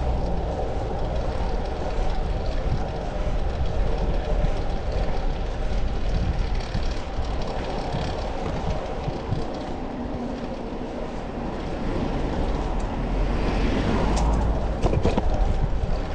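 Steady rush of wind and rolling road noise while riding a fixed-gear bicycle, with a brighter hiss and a few sharp clicks about fourteen seconds in.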